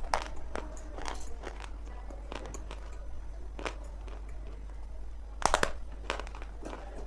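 Dry lumps of multani mitti (Fuller's earth clay) being bitten and chewed: irregular crisp crunches and cracks, with a louder cluster of crunches about five and a half seconds in. A steady low hum runs underneath.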